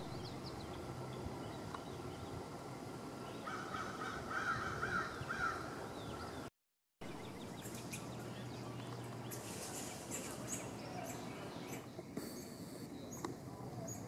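Bird calls in a run of about two seconds, starting a few seconds in. After a brief break, thin high-pitched songbird chirps and twitters follow near the end over a faint steady hum.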